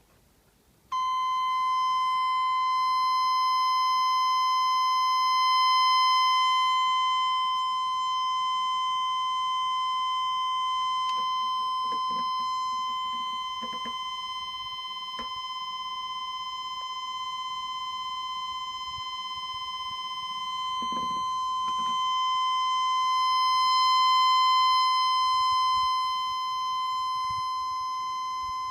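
Continuity tester giving a steady high-pitched beep that starts about a second in and holds unbroken, the sign of a closed circuit between its probes. A few faint clicks sound partway through.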